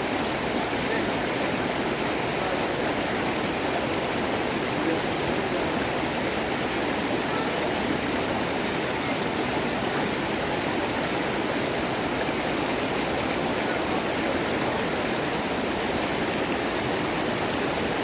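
Rushing water of a mountain stream cascading over rocks: a steady, even rush with no breaks.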